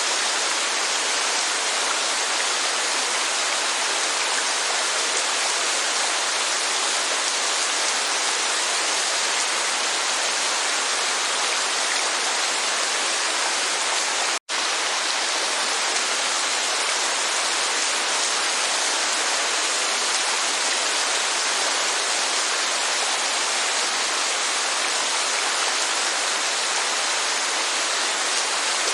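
Steady rushing of rain and a waterfall, a dense even hiss with no lulls. It cuts out for an instant about halfway through.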